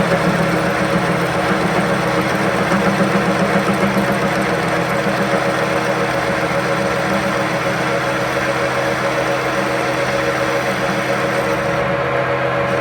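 A machine running steadily: a constant hum under a dense noise.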